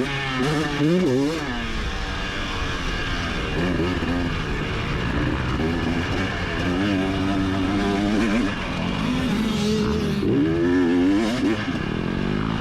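Motocross bike engine heard from onboard, revving up and falling back again and again as the throttle opens and closes through the lap.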